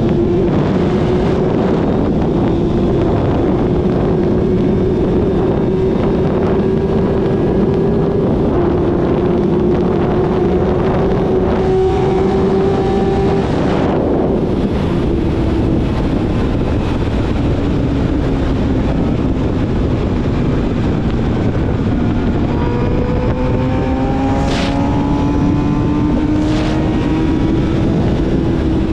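Yamaha YZF-R6 inline-four with a full aftermarket exhaust system, ridden on the road. The engine note holds steady, sinks slowly through the middle, then climbs again over the last several seconds as the bike accelerates, with wind rushing over the microphone.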